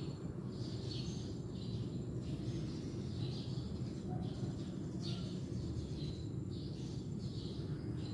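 Birds singing: short, high chirping phrases repeat about once a second over a steady low background rumble.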